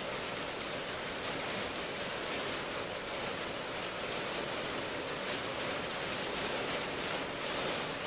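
Steady, even rainfall, a constant hiss of rain with no distinct drops or thunder.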